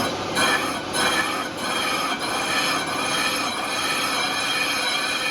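Factory machinery running: a steady metallic noise with many high, squealing tones held through it, with a few brief dips in the first second and a half.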